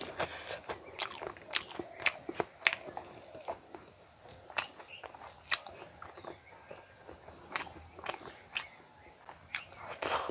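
Close-miked eating by hand: wet chewing with sharp lip smacks and mouth clicks, a few a second and uneven. A louder, wetter burst comes near the end as a handful of rice and fried pumpkin leaves goes into the mouth.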